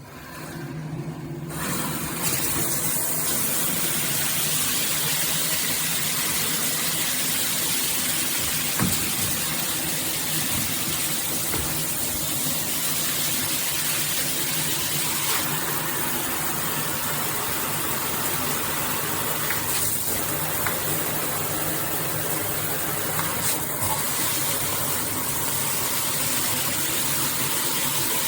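Shower head spraying water, a steady rush that builds up over the first couple of seconds and then holds even.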